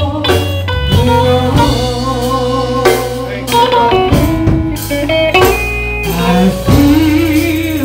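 Slow, blues-style gospel song played by a live church band on guitar and drum kit. The word 'going' is sung at the start, and the band then plays on between the sung lines.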